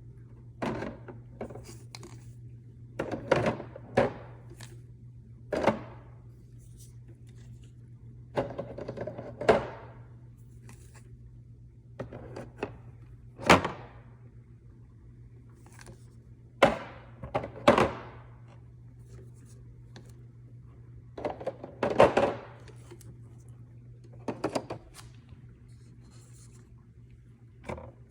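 Knocks and clatter of containers and food items being set down and moved about, roughly a dozen irregular thunks spread out with pauses between them, over a steady low hum.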